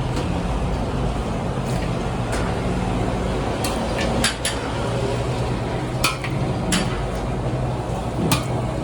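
Steady motor hum with a low drone, with about six short, sharp metallic clinks spread through the second half.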